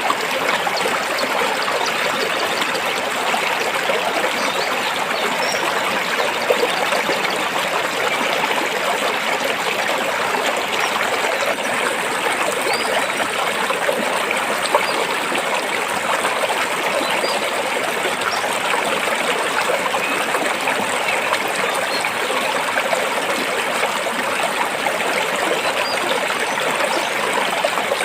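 Stream water flowing and trickling over rocks, a steady even rush with no pauses.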